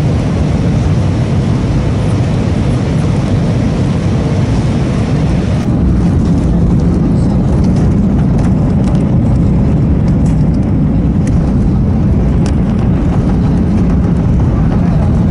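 Steady rumble of jet engines and airflow inside an Airbus A318 cabin. About five and a half seconds in, the upper hiss falls away and the low rumble becomes slightly louder, with a few faint clicks after.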